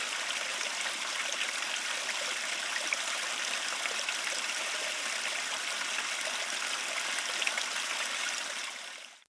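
Stream water flowing steadily, a continuous rushing with faint small ticks, fading out near the end.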